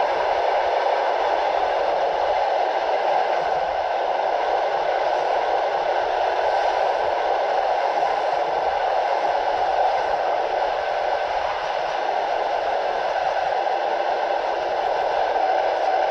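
Steady running noise of a passenger train coach at speed: wheels rolling on the rails, with a constant rushing sound and no distinct clicks. The audio is the camera's own sound from the coach window, with the wind noise processed down.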